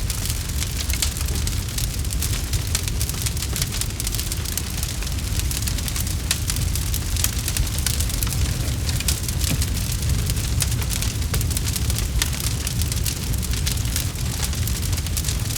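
Campfire crackling: many quick, sharp pops and snaps at irregular intervals over a steady low rumble.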